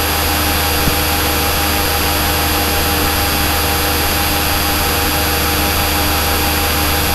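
Steady, unchanging drone of a Cessna's piston engine and propeller in flight, heard from inside the cockpit, with a strong low hum under it.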